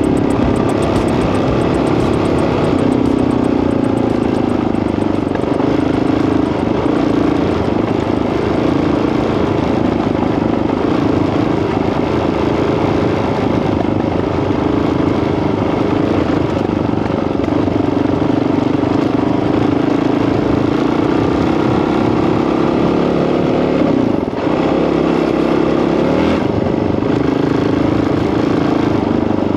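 Honda CRF dirt bike's single-cylinder four-stroke engine running while riding, its pitch wavering up and down with the throttle and dipping briefly about three-quarters of the way through.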